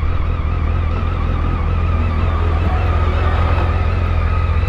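Motorcycle engine idling: a steady low rumble with a thin wavering whine above it.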